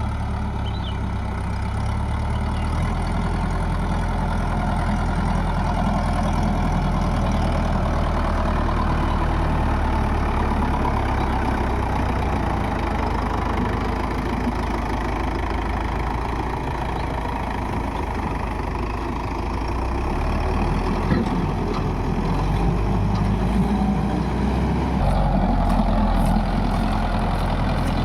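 Tractor diesel engine running steadily, a little louder about three seconds in and again for the last few seconds.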